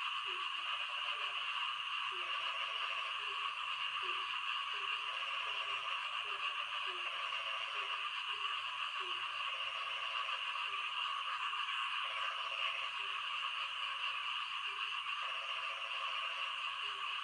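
Frogs calling in the rain: short low croaks repeat about once a second, while a second, higher pulsing call comes and goes in stretches of a second or two, all over a steady hiss of rainfall.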